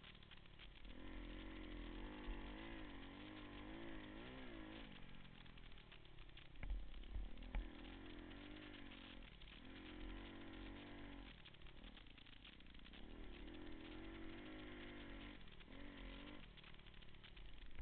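Pit bike engine revving up and down in repeated surges as it is ridden, the revs dropping briefly between them. There are a few low thuds about seven seconds in.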